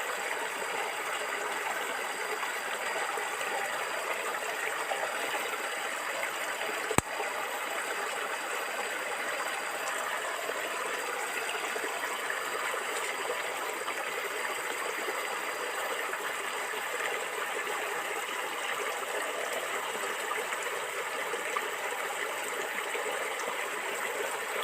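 A stream of water gurgling and flowing steadily, with a single sharp click about seven seconds in.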